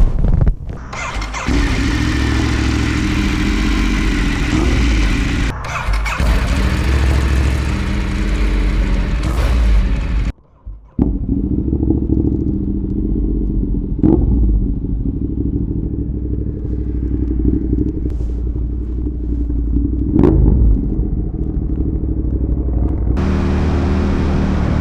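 Motorcycle engine running, with a few short revs that rise and fall in pitch; the sound cuts out briefly about ten seconds in and changes abruptly twice, as between spliced recordings.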